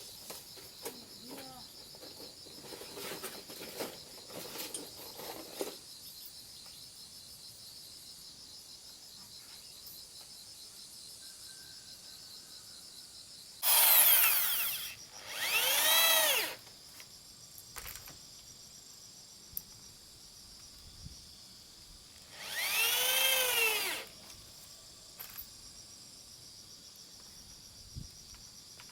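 A power drill runs in three short bursts, each rising in pitch as the motor speeds up and falling as it winds down. Two bursts come close together about halfway through and one comes later. Before them are a few light knocks of handling wood or tools.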